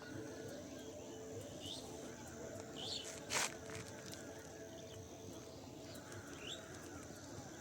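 Birds calling outdoors: short upward-sweeping chirps repeated every second or so over a steady high-pitched hiss, with one brief loud rustling burst about three seconds in.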